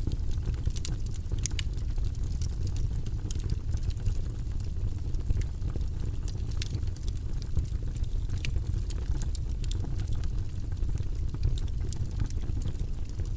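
Wood fire crackling in a fireplace: a steady low rush of flames with many small, sharp crackles and pops scattered irregularly throughout.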